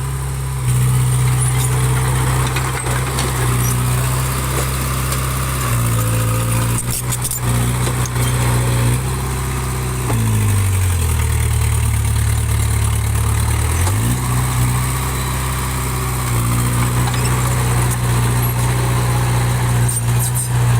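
Small bulldozer's diesel engine running steadily. Partway through, its pitch sags for about three seconds as the engine pulls down, then rises back. A few knocks are heard near the middle.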